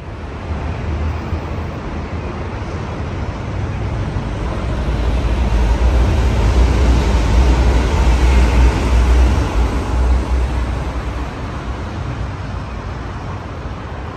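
Kintetsu Aoniyoshi sightseeing express, an electric train, passing along an elevated viaduct overhead: a deep rumbling pass-by that builds to its loudest about halfway through and then fades. Steady road traffic noise runs underneath it.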